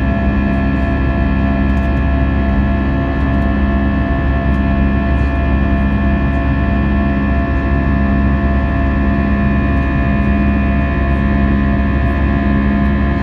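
Airbus A320 engines and airflow heard inside the passenger cabin: a steady loud drone with several steady whining tones over a low rumble, and a low hum that swells and fades every second or two.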